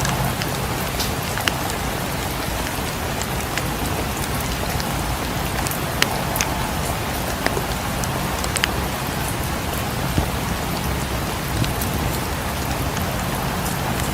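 Steady rain falling, mixed with scattered sharp crackles and pops from a wood fire, about ten in all.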